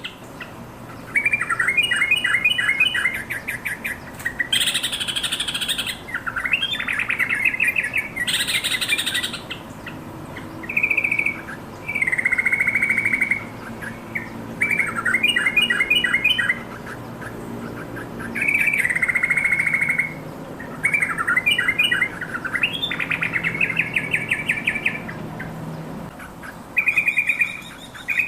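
Yellow-vented bulbul singing: short, quick bubbling phrases of several notes, repeated every second or two with brief pauses between them.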